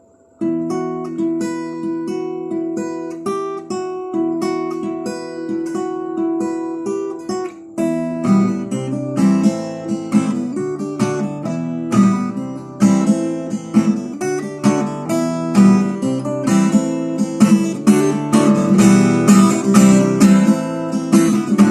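Acoustic guitar playing an instrumental intro. It comes in about half a second in with a light, even pattern of notes, then from about eight seconds in it is strummed fuller and louder.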